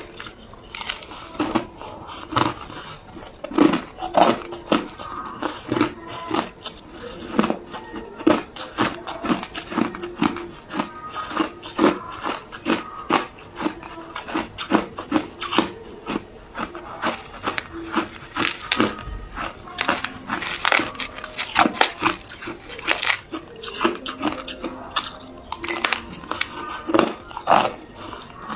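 Hard ice cubes being bitten and chewed close to the microphone: a continuous, irregular run of sharp, crisp cracks and crunches.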